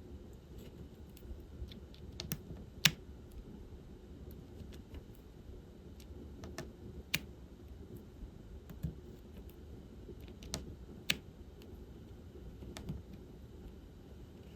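Scattered small, sharp plastic clicks and taps at an irregular pace, the loudest a little under three seconds in: diamond painting work, a drill pen picking up resin drills from a plastic tray and pressing them onto the canvas. A low, steady room hum lies underneath.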